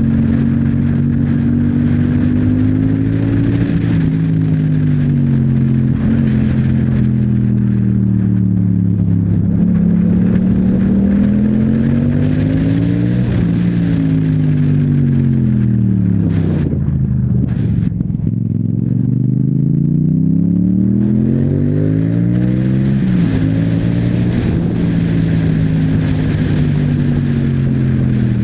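Yamaha MT-07's parallel-twin engine through an Akrapovic exhaust, pulling up through the revs and dropping back several times as the rider accelerates and shifts gears. It rolls off to low revs about two thirds of the way in, then climbs again.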